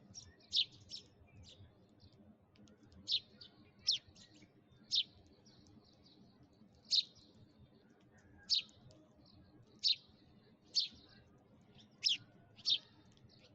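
A sparrow chirping: about a dozen short, sharp, downward-sliding chirps, spaced irregularly roughly one a second.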